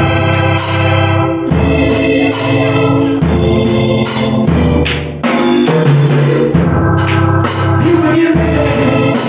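Gospel church band playing: sustained organ chords that change every second or two, over a low bass line, with drums and cymbals keeping a steady beat.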